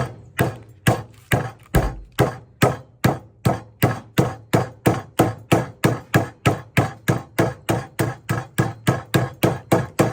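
Meat hammer pounding slices of beef thin: a steady run of rapid, even blows, about three to four a second.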